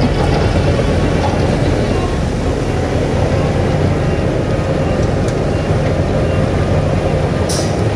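Heavy diesel earthmoving machinery running steadily under load, a deep engine drone with a dense mechanical clatter over it. A brief high hiss comes near the end.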